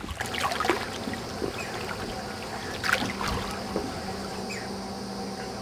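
Water splashing and lapping around a kayak, with a few sharp splashes in the first second and again about three seconds in. A faint steady hum sits underneath from about three seconds in.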